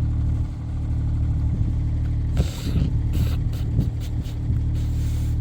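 Kubota mini excavator's diesel engine running steadily, with several short bursts of noise over it from about two and a half seconds in.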